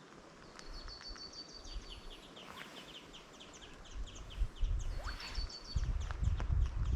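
A songbird singing a fast twittering phrase with a steady high trill, twice. From about four seconds in, low irregular thuds of a walker's footsteps grow louder.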